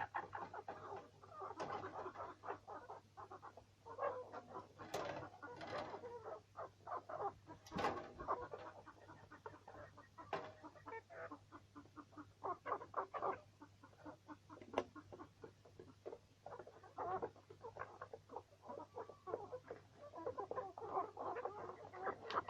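A flock of chickens clucking continuously in short, overlapping calls, over a steady low electrical hum.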